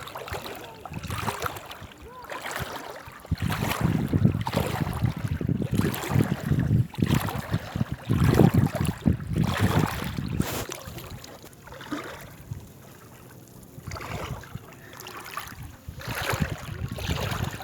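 Wind buffeting the microphone in uneven gusts, a heavy low rumble that rises and falls, easing into a quieter lull a little past the middle before picking up again near the end.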